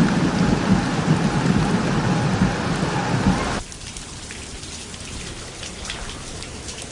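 Heavy rain falling and splashing, loud with a deep rumble, then cutting off suddenly about three and a half seconds in to lighter rain with scattered drips.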